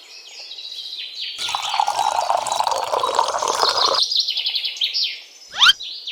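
Birds chirping rapidly in quick repeated high notes, with a noisy rush for a couple of seconds in the middle and a quick rising sweep near the end.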